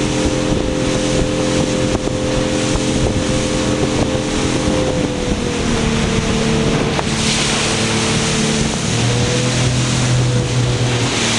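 Motorboat engine running steadily under way, its note shifting slightly about halfway through, with wind on the microphone and a rush of water. The wind and water hiss grows louder about two-thirds of the way in.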